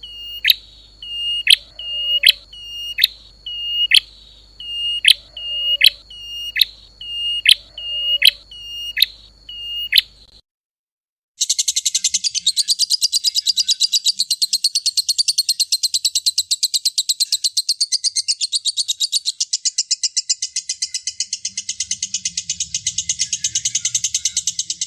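Recorded songbird song played for bird training: first a series of sharp, high chirps that sweep upward, one or two a second. After a short break about ten seconds in, a different bird takes over with a rapid, continuous high trill.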